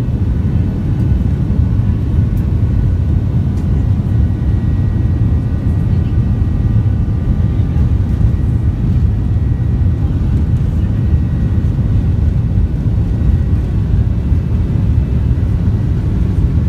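Steady, loud rumble of a Boeing 737-800's CFM56 jet engines and airflow heard inside the passenger cabin, with faint steady whining tones above it.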